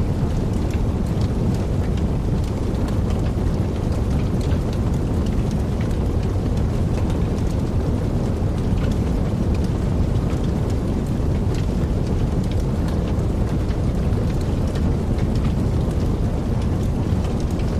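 Wood fire burning in a fireplace: a steady low rumble of the flames with many small crackles scattered throughout.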